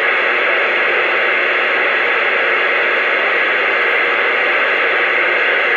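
Steady radio static hiss from a CB radio receiver with the squelch open, heard between transmissions while nobody is keyed up on the channel.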